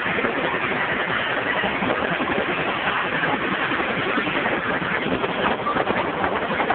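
Helicopter running: a steady rush of rotor and engine noise.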